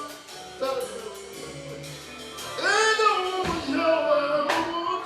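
Gospel group singing with band accompaniment: voices holding and bending long notes over sharp drum hits.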